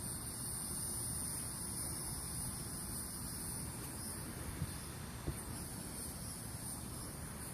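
Faint steady high-pitched chirring of insects, with two faint clicks about halfway through.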